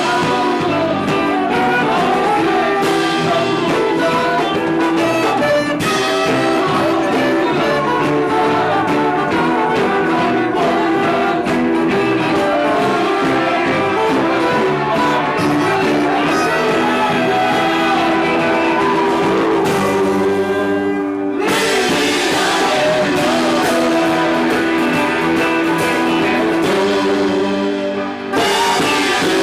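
Live band music, with loud amplified instruments and some singing, recorded by a camcorder's on-board microphone; the top end drops out briefly twice, about 21 and 28 seconds in.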